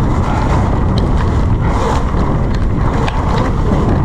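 Wind buffeting the camera microphone as a mountain bike descends a wet trail at speed, a steady loud rushing with scattered small rattles and clicks.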